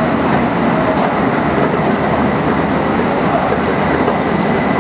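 Tokaido Shinkansen Nozomi train running at high speed: a loud, steady rush of running noise with a light rhythmic clatter of the wheels.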